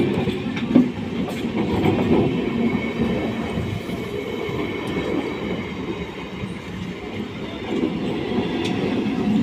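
Moving train running on the rails: a steady rumble of wheels on track, with a couple of sharp knocks in the first second and another near the end.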